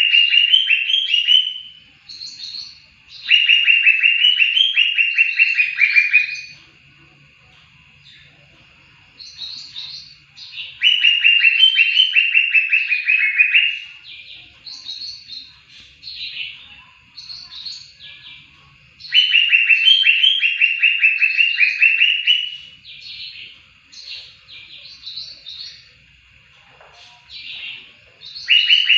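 Cucak hijau (green leafbird) singing: loud, rapid trilled phrases of about three seconds, repeated four times, with quieter, higher chirping notes between them.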